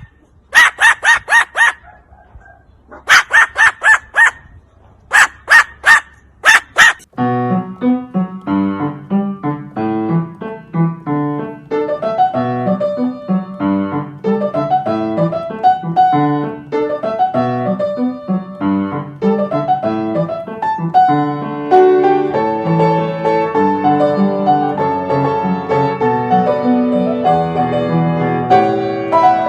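A run of loud, harsh animal calls in quick groups for the first seven seconds or so, then solo piano music.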